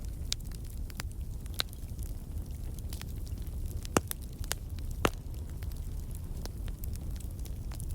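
Fire crackling: a steady low rumble with irregular sharp snaps and pops, two of them louder about four and five seconds in.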